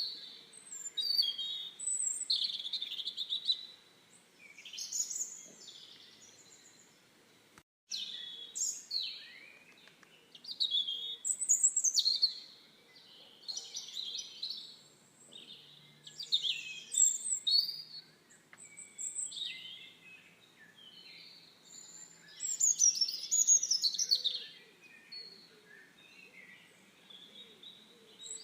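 Songbirds singing and calling: quick chirping, warbling phrases that come every second or two, overlapping at times, with a brief break and a click about eight seconds in.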